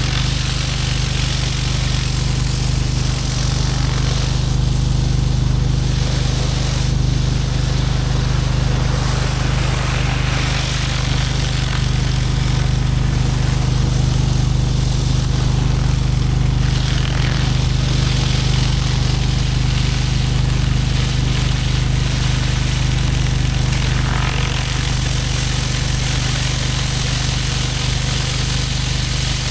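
Pressure washer engine running steadily under load, with the hiss of high-pressure water from a surface cleaner spraying a concrete driveway.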